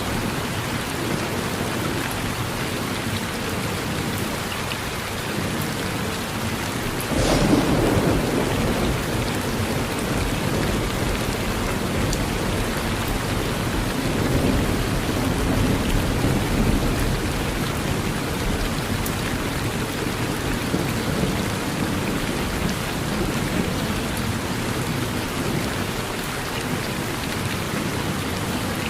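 Steady rain falling, with a sudden crack of thunder about seven seconds in and a lower roll of thunder a few seconds later.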